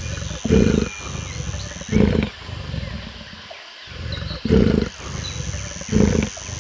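Big cat growling, given as the snow leopard's sound: four loud, low growls over a continuous low rumble.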